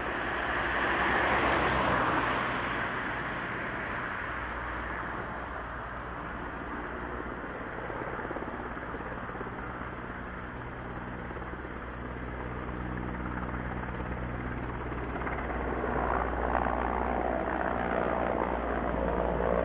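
Steady engine noise with a fast, even chirring of insects over it; the engine noise swells briefly near the start and again near the end.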